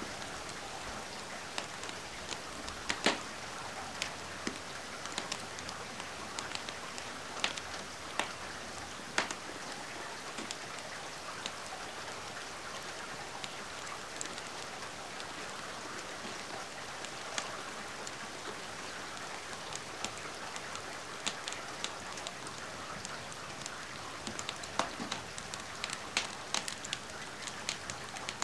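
Steady rain hissing, with scattered sharp pops and crackles of a wood fire in a fireplace.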